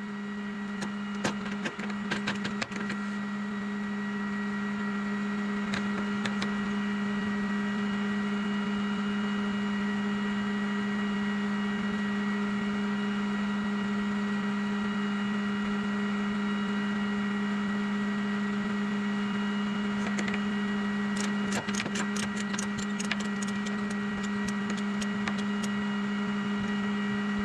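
Flatbed tow truck's PTO-driven hydraulic system running with a steady, even hum while a car is loaded onto the bed, with scattered clicks and rattles near the start and again toward the end.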